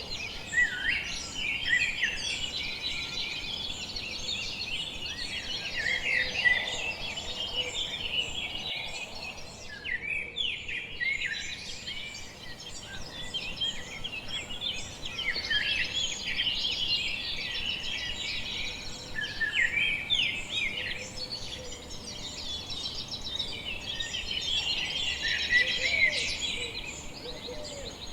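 A dawn chorus of many small songbirds, with overlapping chirps, trills and whistles over a steady background hiss. The chorus breaks off briefly about ten seconds in.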